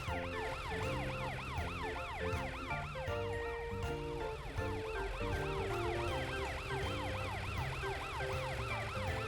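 Cartoon police car siren in a fast rising-and-falling yelp, about three cycles a second, over background music.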